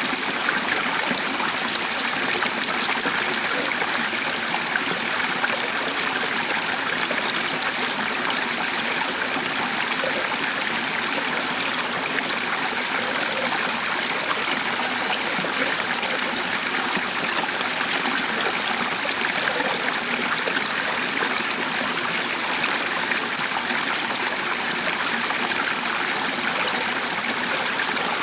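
Stream of water flowing steadily over stones, an even rushing and trickling that does not let up.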